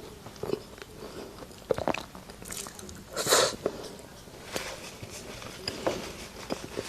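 A person chewing and eating close to the microphone: scattered wet mouth clicks, with one louder noisy burst a little past halfway through.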